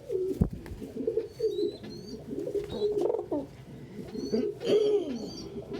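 Several domestic pigeons cooing at once, overlapping low wavering coos, with a few faint high chirps and a single low thump about half a second in.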